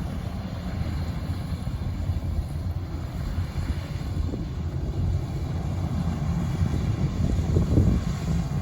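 Steady low rumble with no clear pitch, flickering in level throughout.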